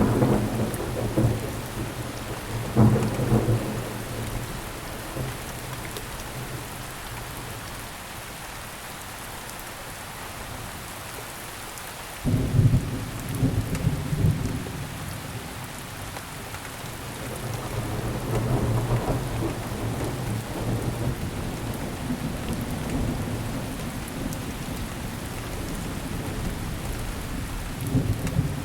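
Steady rain falling, with thunder rumbling over it: a clap at the start and another about three seconds in, a sudden crack about twelve seconds in that rumbles on for a couple of seconds, a slower swelling rumble later, and another clap near the end.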